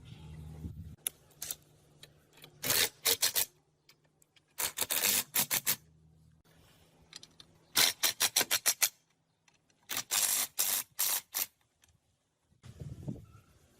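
Four bursts of rapid, sharp mechanical clicks, each a quick run of several clicks, with short pauses between them.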